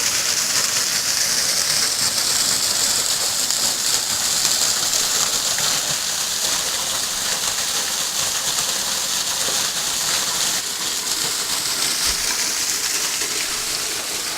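Falling water splashing steadily, an even hiss with no breaks.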